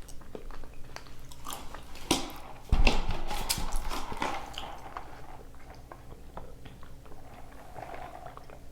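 A person biting and chewing carne asada fries close to the microphone, with many small sharp mouth clicks. A single louder knock comes about three seconds in.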